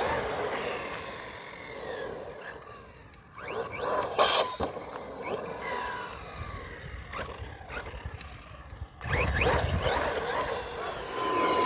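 JLB Cheetah RC truck's brushless electric motor whining up and down in pitch as it is throttled on and off, geared with a 17-tooth pinion. There is a sharp clatter about four seconds in, and a louder rushing noise from about nine seconds in.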